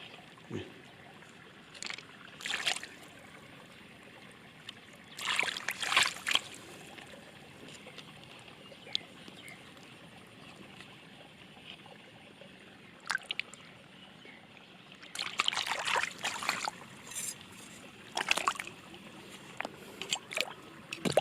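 Water sloshing and trickling in irregular bursts of a second or so, over a low steady background.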